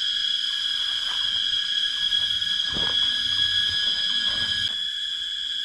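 A chorus of forest insects keeps up a steady, high-pitched, unbroken drone. Faint low scuffs and knocks sound beneath it.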